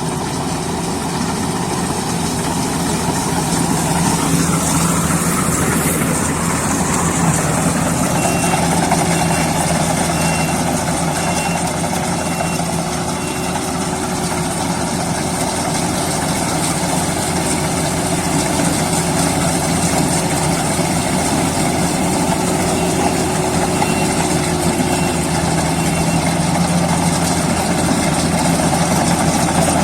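Heavy diesel engine of a farm or earth-moving machine running steadily. A run of short high beeps, about one a second, sounds twice: about eight seconds in and again near the end.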